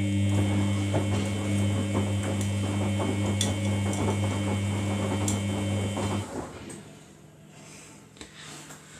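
Samsung front-loading washing machine taking in water for its final rinse: the water inlet valve hums steadily over the rush of incoming water, then shuts off abruptly about six seconds in.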